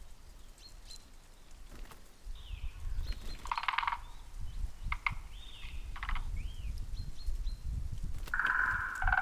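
Birds calling in woodland: several short arched chirps, a brief rapid rattle about a third of the way in, and a longer, lower call near the end, over a low wind rumble.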